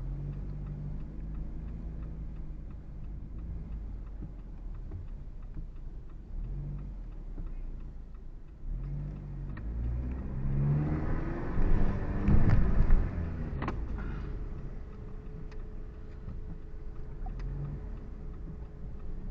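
Car engine and road noise heard from inside the car in slow traffic, swelling louder for a few seconds around the middle as a vehicle accelerates, with a couple of sharp clicks near the peak.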